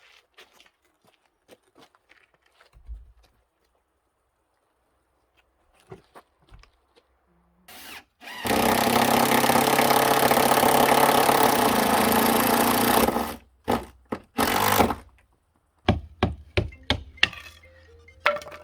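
An engine-driven saw running loud and steady for about five seconds while cutting wood, then a few short bursts. Light knocks and clicks come before and after.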